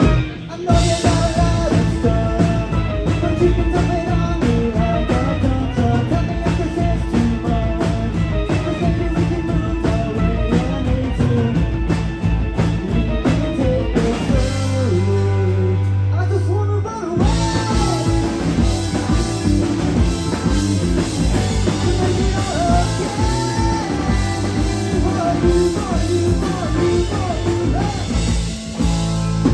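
Live rock band playing a song: electric guitar, drum kit and a sung vocal. About halfway through, the drums and guitar drop out for a couple of seconds, leaving a held low note, then the full band comes back in.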